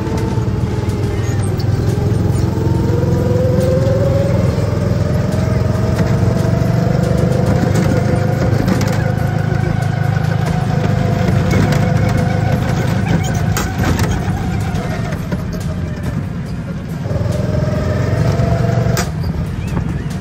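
Go-kart engine running under throttle as the kart drives the track. Its pitch rises about two seconds in, holds steady, drops off about three-quarters of the way through as the kart slows, then picks up again near the end.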